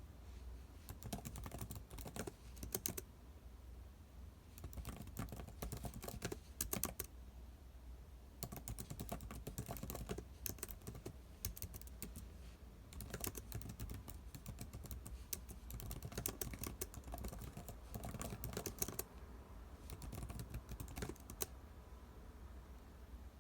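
Typing on a computer keyboard in bursts of rapid key clicks, with short pauses between runs, over a faint steady low hum.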